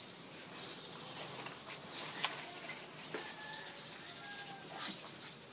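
Faint bird calls in the background: a few short whistled notes near the middle, with one sharp click about two seconds in.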